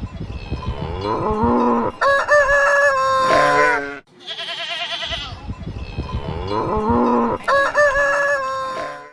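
A rooster crowing amid farmyard fowl calls. The same sequence of crows plays twice, with a brief break about four seconds in.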